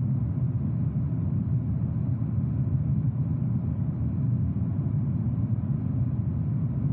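Aircraft engines giving a steady low rumble.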